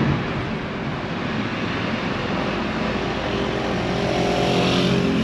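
A vehicle engine running: a steady rumble and hiss, with a pitched hum that grows stronger about three and a half seconds in.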